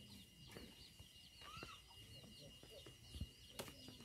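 Near silence with faint, rapid birds chirping and a couple of soft knocks a little after three seconds in.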